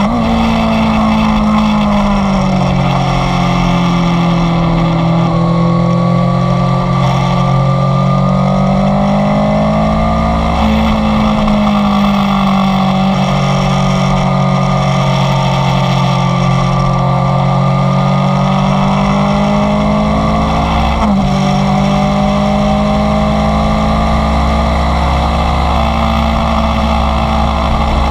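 Inline-four motorcycle engine running under way, its note sagging and climbing with throttle, and jumping up abruptly twice, as at a gear change.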